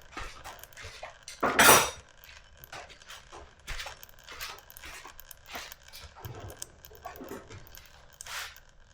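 Scattered clinks and rattles of small metal objects being handled and set down, with one louder clatter about one and a half seconds in.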